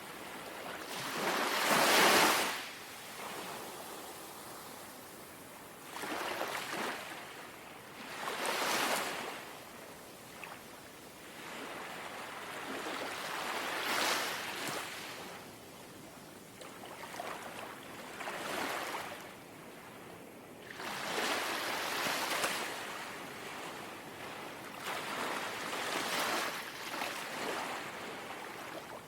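Small, gentle sea waves lapping and washing onto the shore, each wash a swelling hiss that fades again every few seconds; the first, about two seconds in, is the loudest.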